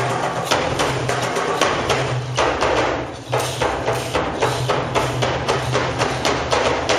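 Percussion music: rapid wooden-sounding strikes, several a second, with a short lull about three seconds in, over a low tone that comes and goes.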